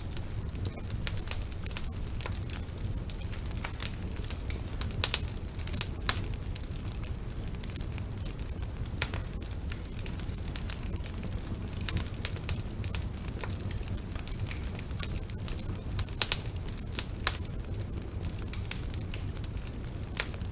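Wood fire crackling in a fireplace: irregular sharp pops and snaps over a steady low rumble of the flames, with a few louder pops scattered through.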